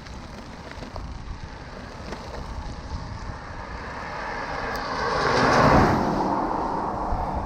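A car passing on a wet road, its tyre hiss swelling to a peak about five and a half seconds in and then fading, over a steady wind rumble on the microphone.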